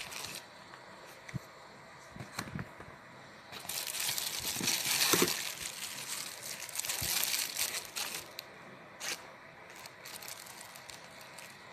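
Crinkling and rustling of packaging being handled, loudest for a few seconds in the middle, with scattered sharp clicks.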